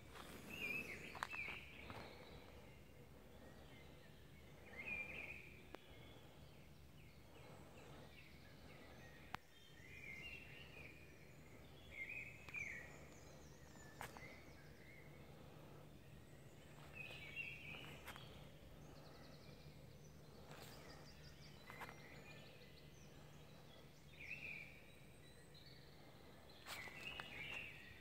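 Faint birdsong: short song phrases every few seconds, with a few soft clicks in between.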